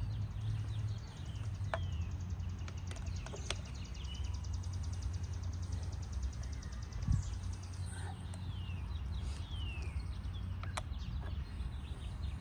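Birds chirping, with several quick downward-sweeping calls and a rapid high trill in the first half. A few sharp clicks and a steady low rumble run underneath.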